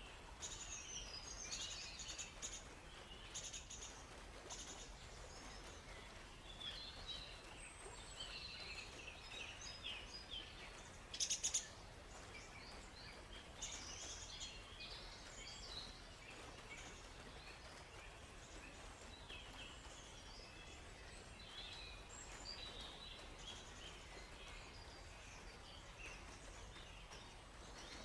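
Several small songbirds chirping and twittering in quick, overlapping high calls, with a louder, brief burst of calls about eleven seconds in, over a faint steady background hush.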